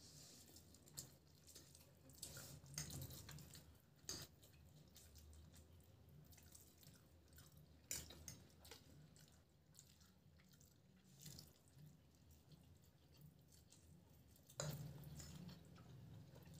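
Faint wet chewing and mouth sounds of people eating chow mein noodles, with occasional sharp clicks, the loudest near the end.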